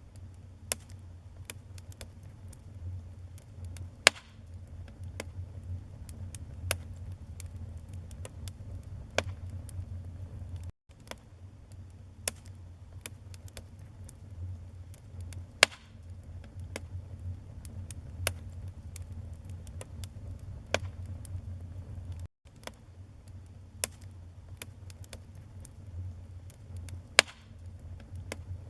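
Wood burning in a fireplace: a steady low rumble of flame under frequent sharp crackles and pops. Three louder pops stand out, and the sound cuts out twice for an instant.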